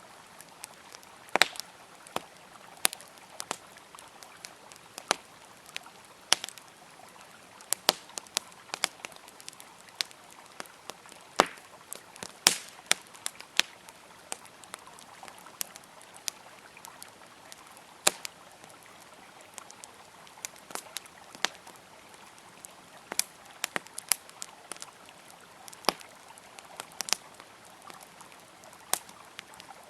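Wood campfire crackling, with sharp irregular pops and snaps of varying loudness, the strongest about a second and a half in, around twelve seconds in and around eighteen seconds in. Under it runs a steady soft rush of flowing river water.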